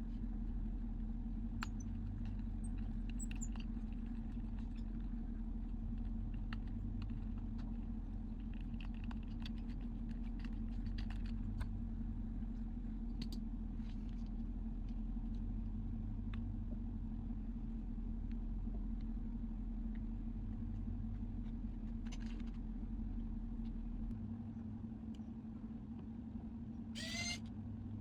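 Steady low electrical hum with scattered small clicks and taps, as of small tools handled at a repair bench. The deepest part of the hum drops out near the end, and a short rising chirp sounds just before the end.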